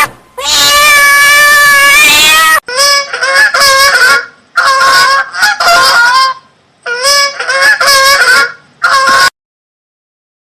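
Domestic geese honking: one long drawn-out call, then several bursts of quick repeated honks with short gaps between them, stopping abruptly about a second before the end.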